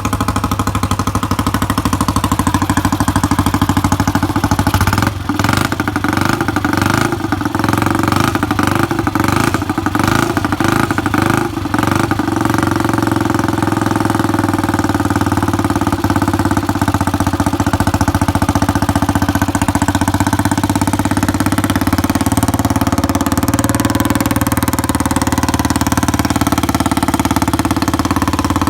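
Restored Guiller motorcycle's AMC engine running on its first start after about 50 years laid up. It runs unevenly with a string of sharp cracks and stumbles between about five and twelve seconds in, then settles into steady running.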